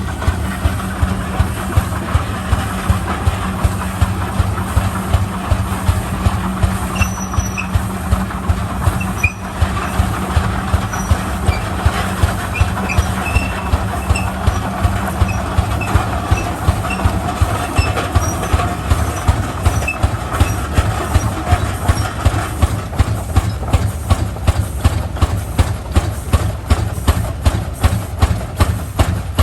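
Rumely OilPull tractor's kerosene-burning engine, which the owner believes is a single cylinder, running with a slow, even beat of about two firing pulses a second. A steady hum underneath stops a little past halfway.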